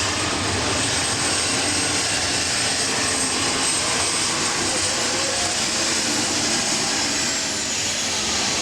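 Modified pulling tractor's engines running at high power, a loud steady drone.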